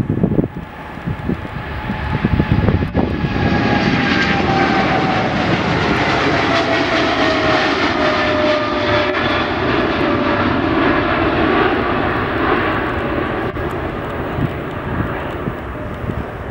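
An airplane flying past: its engine noise swells over a few seconds, holds loud, then slowly fades, with a whine that falls steadily in pitch as it goes by.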